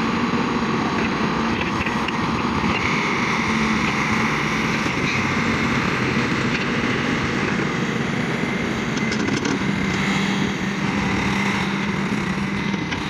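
Excavator's diesel engine running steadily at working revs, with a faint steady whine over it.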